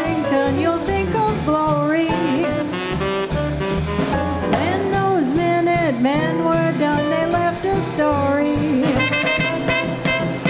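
Small swing band playing an instrumental break: a horn carries the lead with scooped and falling notes, over a walking bass and drums.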